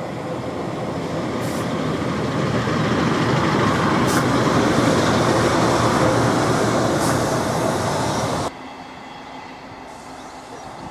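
Two-car Pacer diesel railbus passing close by, its engine and wheel noise on the rails building to a loud peak. The sound cuts off suddenly about eight and a half seconds in, giving way to the quieter, steady hum of a Class 158 diesel multiple unit approaching in the distance.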